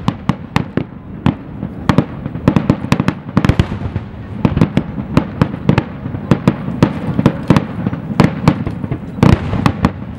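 Aerial fireworks going off: a dense, irregular barrage of sharp bangs, several a second, with no let-up.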